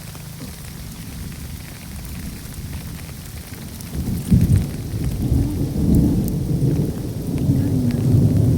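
Rainstorm with a deep, uneven rumbling that starts suddenly about four seconds in, with a loud jolt at its onset, and keeps going.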